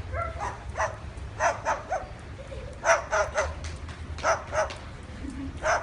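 A bird imitating a dog's bark: short sharp barks, some single and some in quick runs of three or four.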